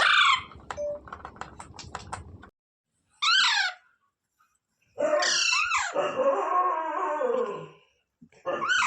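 Parrot calls separated by brief silent gaps: clicking at first, then a short falling screech about three seconds in, a long wavering call of about three seconds, and another short screech near the end.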